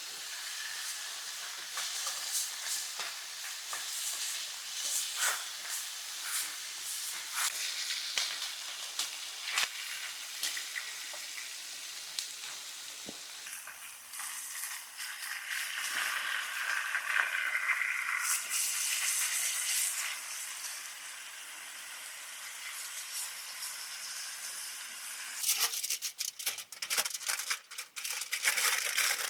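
Food sizzling as it fries over an open fire: a steady hiss with scattered sharp pops. Near the end comes a dense run of close, sharp crackling.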